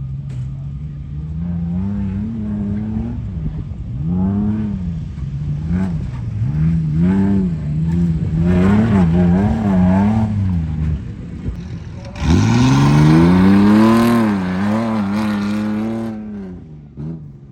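Truck engine revving up and down again and again as it is driven hard. It climbs sharply to its loudest, hardest acceleration about twelve seconds in, then falls away near the end.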